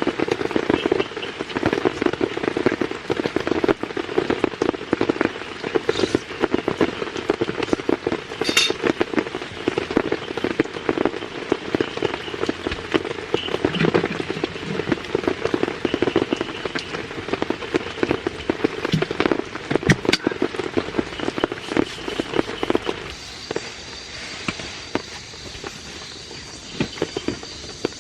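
Rain falling and striking a surface: a dense, continuous patter of drops. About 23 seconds in it becomes quieter and thinner.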